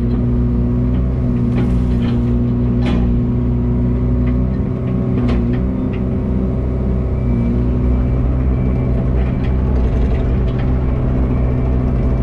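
Truck engine running steadily at idle, with a few light clicks over it.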